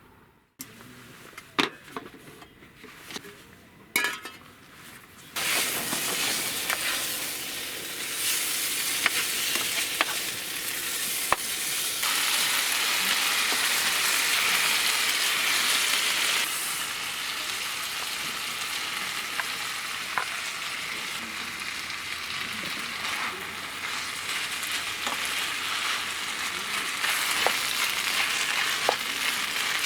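Food frying in a pan, sizzling steadily, with occasional clicks of a utensil stirring it. A few knocks come first, and the sizzle starts about five seconds in.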